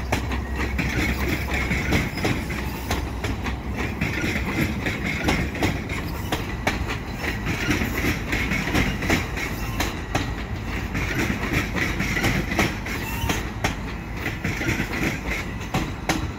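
Bombardier bilevel commuter coaches rolling past close by: a steady rumble of steel wheels on rail, with frequent irregular clacks as the wheels pass over rail joints.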